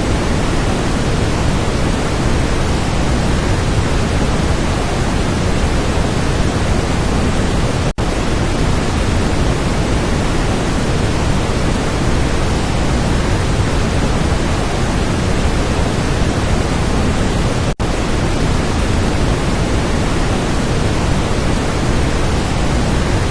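Waterfall's steady, loud rush of falling water, broken twice by a split-second gap.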